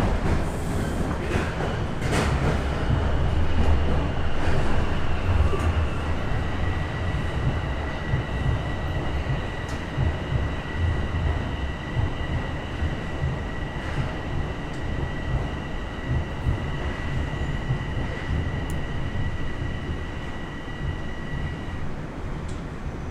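Bombardier Toronto Rocket subway train running, with a steady low rumble. Two steady high-pitched squealing tones join about two and six seconds in and stop shortly before the end.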